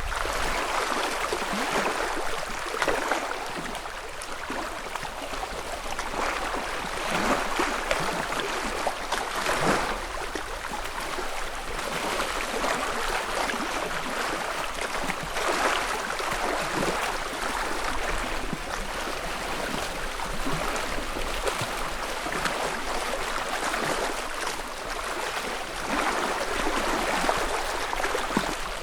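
Small ripples on a calm freshwater lake lapping and splashing against the shore, with a soft, steady wash broken by brief brighter splashes every second or two.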